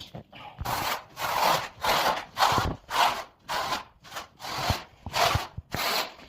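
A hand tool worked back and forth over a wall surface in steady rubbing strokes, about one and a half a second.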